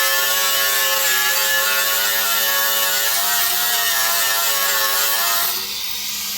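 Angle grinder grinding metal with a steady, rough whine that wavers slightly under load. It cuts out about five and a half seconds in.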